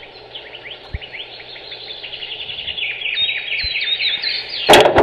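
Birds chirping: a rapid, dense run of short down-slurred chirps that grows louder. A loud, brief noisy burst comes near the end.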